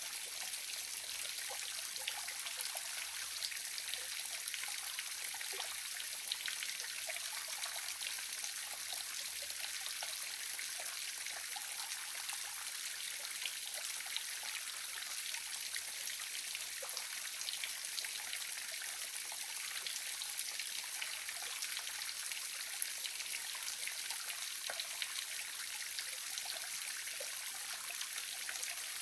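Waterfall splashing steadily: an even hiss of falling water, mostly high-pitched, with small splashes and drips flecked through it.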